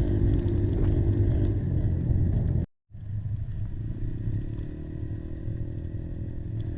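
Kymco Maxxer 300 quad's single-cylinder engine running steadily on the move. The sound cuts out for a moment a little under three seconds in and comes back quieter.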